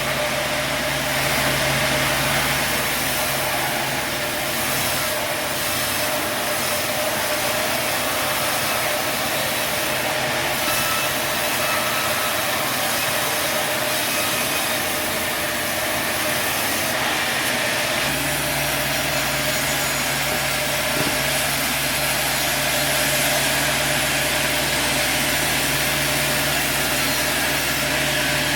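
A sawmill running, with a steady mechanical saw and engine noise. A low motor hum drops out about a second in and comes back about eighteen seconds in.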